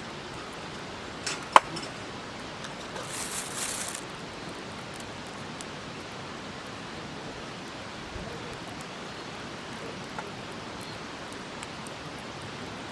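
Wood campfire with a steady hiss beneath, one sharp crackle about a second and a half in, a short high hiss a little later, and a few faint ticks.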